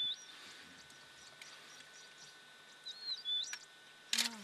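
A bird calling twice, about three seconds apart, each call a short arched note followed by a rising whistle. Just before the end, a short, sharp, loud sound.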